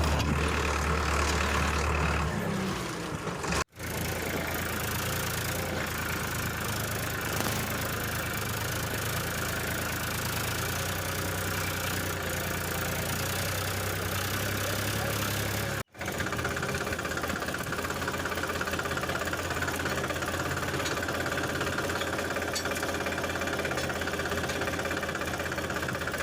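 Mini tractor engine running steadily at a low idle-like pace, cut off abruptly twice, about four seconds and sixteen seconds in.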